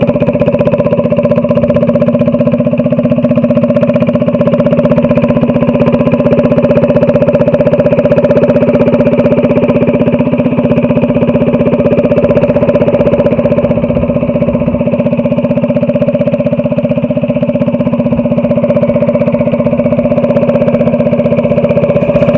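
Small single-cylinder engine, a Predator 212 on a Doodlebug minibike, running at a steady speed with no revving. It is loud and close.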